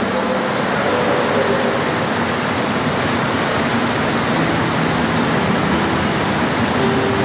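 Steady rain falling, an even, unbroken hiss, with a few faint brief tones under it now and then.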